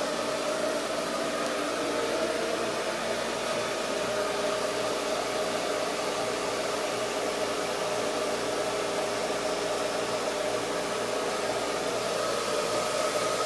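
Steady machinery hum in a boat's engine room: a constant whirring rush with a few fixed tones in it, like a fan or blower running, and no change in speed.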